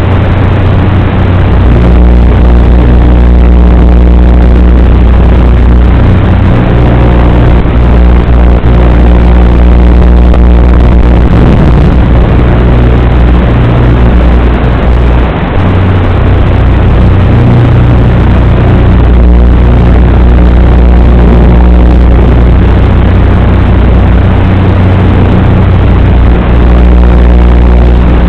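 Eachine Lizard95 95 mm FPV racing quadcopter's brushless motors and propellers buzzing in flight. Their pitch shifts a little as the throttle changes, over a loud low rumble of wind on the microphone.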